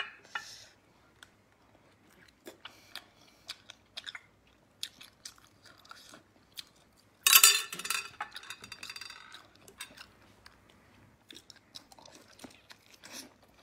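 Close-miked chewing and wet mouth sounds of a person eating sea snail meat, with scattered small clicks and one louder mouth noise about seven seconds in.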